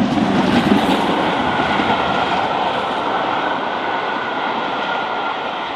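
Train running on the rails: a loud, steady rumble and roar of the moving train.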